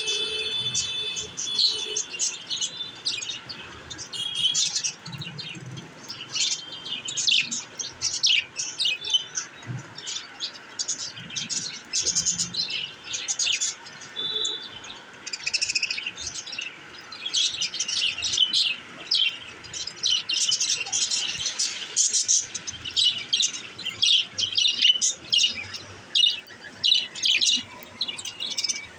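Budgerigars chattering: a continuous stream of short, high chirps and warbles.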